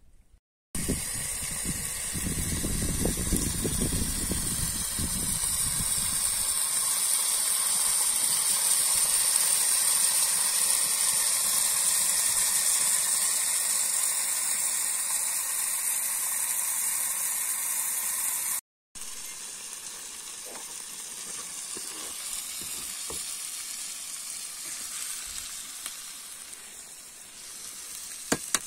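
Menemen (eggs with tomatoes and peppers) sizzling and frying in a pan over an open fireplace fire, a steady hiss that cuts out briefly about two-thirds through.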